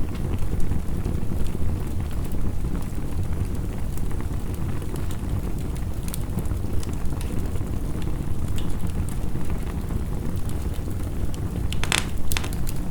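Crackling fire with scattered sharp pops, a few louder pops close together near the end, over a steady low rumble of fire and heavy rain.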